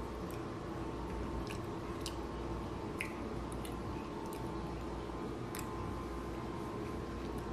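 Close-up chewing and wet mouth sounds of someone eating boiled artichoke leaves dipped in sauce, with short sticky clicks about once a second, over a steady low hum.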